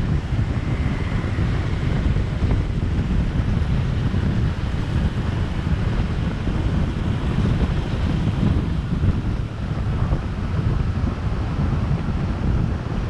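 Steady wind rumble buffeting the microphone of a camera on a moving motorbike, with the motorbike and surrounding street traffic underneath.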